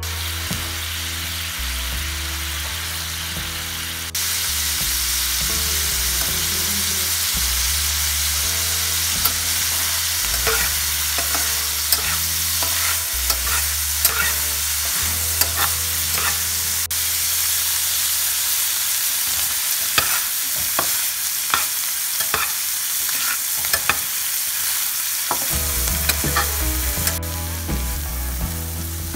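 Dried omena fish frying in hot oil in a metal pan, sizzling steadily. From about a third of the way in, a metal spatula scrapes and taps against the pan many times as the fish is stirred.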